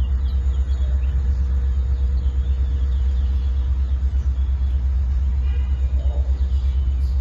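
Wind buffeting the microphone: a loud, fluttering low rumble throughout, with a faint short high chirp about five and a half seconds in.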